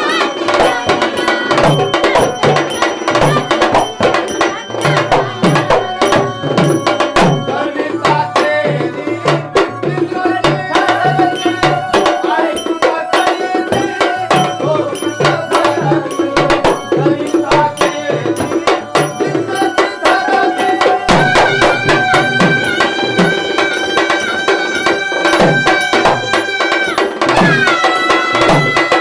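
Instrumental passage of Marathi tamasha folk music: a hand drum playing a quick, steady rhythm under sustained melodic tones.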